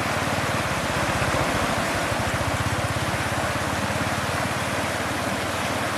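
Steady rushing water noise with a low, rapid throbbing beneath it.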